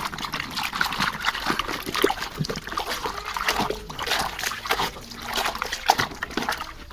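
Water sloshing and splashing in a small tub as a muddy plastic toy car is swished and rubbed clean, with irregular light knocks of plastic.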